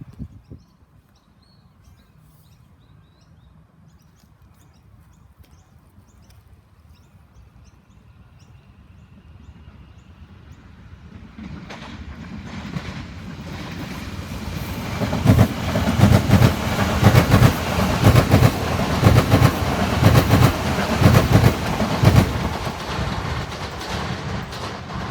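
A train approaching and passing: faint at first, its rumble building from about halfway through to a loud, rapid clickety-clack of wheels over the rails, then easing off near the end.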